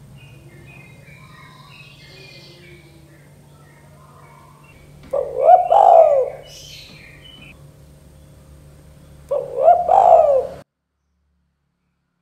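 Spotted dove (tekukur) cooing: two short coo phrases about four seconds apart, over faint chirping of small birds and a low steady hum. The sound cuts off suddenly to silence shortly after the second phrase.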